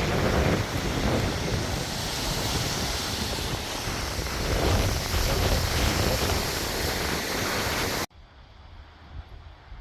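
Strong wind buffeting the microphone, a loud gusting rush heaviest in the low end. It cuts off suddenly about eight seconds in, leaving a faint low rumble.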